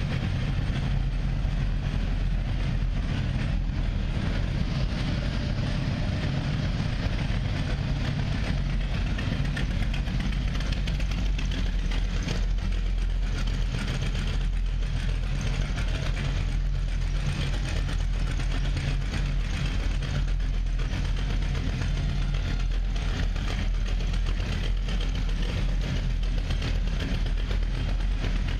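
BossHoss motorcycle's 502 ci (8.2-litre) ZZ502 big-block V8 idling steadily through an exhaust quietened to meet Japanese noise rules.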